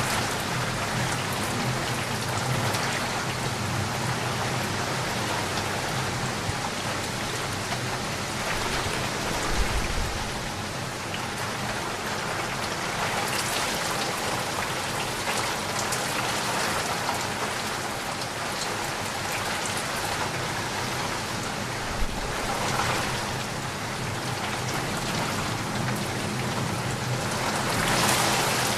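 Steady rain falling, a dense even patter of drops on a surface. Two brief low thuds break through, about a third of the way in and again later.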